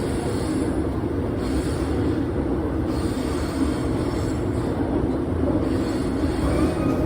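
Steady low rumble and rushing noise of a moving vehicle, even throughout with no clear rhythm.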